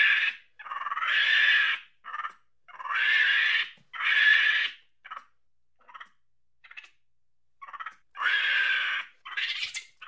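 Monkey calling: a run of loud pitched calls, each half a second to a second long, several rising at the start, with short chirps between them.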